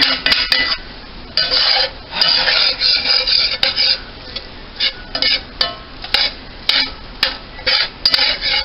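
A utensil stirring and scraping ground beef in a cast-iron skillet, mixing in taco seasoning: irregular scraping strokes, a few of them drawn out for about a second.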